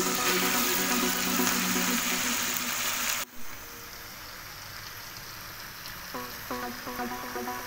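Stir-fry of choy sum and pork sizzling in a hot pan, with background music underneath. The sizzling cuts off abruptly about three seconds in, and the music's plucked notes come back near the end.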